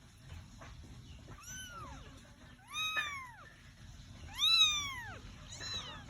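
A one-month-old kitten meowing four times. Each meow is high and arched, rising then falling in pitch, and the third is the loudest.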